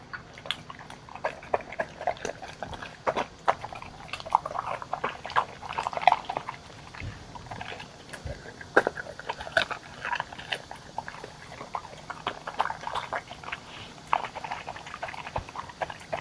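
Dogs eating homemade food from bowls: irregular wet lapping and chewing with small clicks.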